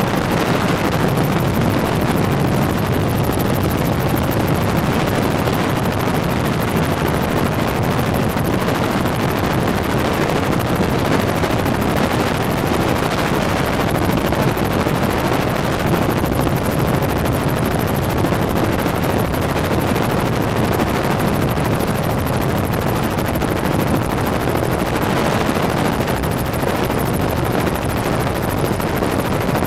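Steady, loud helicopter rotor and engine noise heard from aboard the aircraft in flight.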